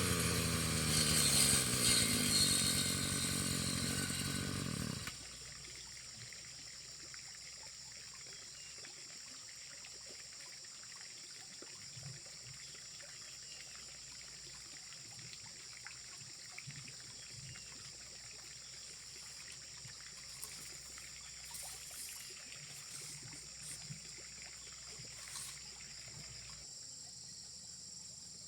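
Small petrol grass-cutter engine running, its pitch falling as it slows, then cutting off about five seconds in. After that, a steady high insect drone with faint scattered ticks.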